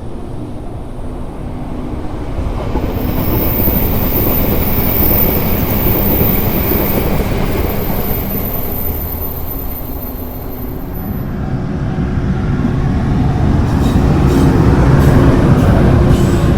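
Chuo Line train passing close by: a loud rush of wheels on the rails with a faint, very high steady whine. It swells, eases off about ten seconds in, then swells again to its loudest near the end, with sharp clicks of wheels over rail joints.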